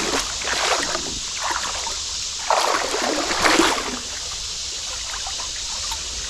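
Creek water running steadily, with two louder splashes about two and a half and three and a half seconds in.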